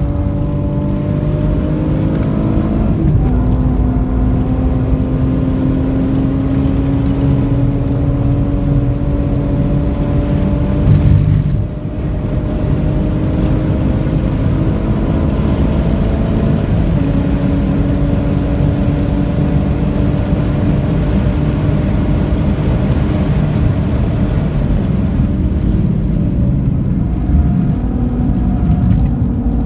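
Alfa Romeo 156's 2.5 V6 engine heard from inside the cabin, pulling hard on track, its pitch climbing slowly with a gear change about three seconds in. There is a brief loud burst of noise about eleven seconds in. Near the end the engine note falls and shifts as the car slows for a corner.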